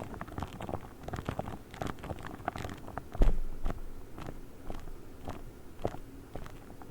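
A pink star-shaped ASMR trigger object handled close to the microphone: a dense run of crackly, crunchy clicks and taps, with one louder low thump about three seconds in.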